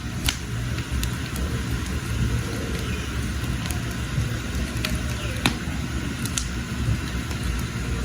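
Wood fire burning in a hearth: a steady low rumble with scattered sharp crackles and pops, one louder pop about five and a half seconds in.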